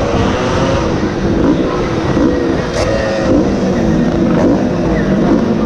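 Small racing motorcycle engine heard from onboard at speed, its pitch climbing and dropping back again and again as the rider works the throttle and gears, over a constant low rush of wind.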